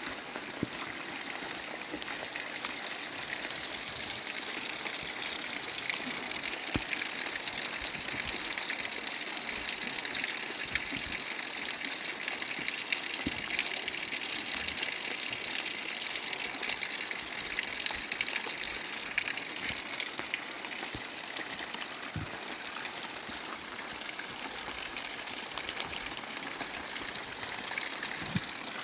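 Water rushing steadily, with a few faint clicks scattered through it.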